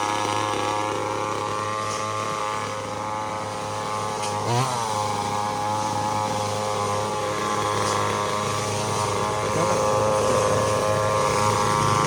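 Small petrol engine of a handheld cutting tool running steadily at high speed. About four and a half seconds in, its pitch dips briefly as it takes a load, then recovers.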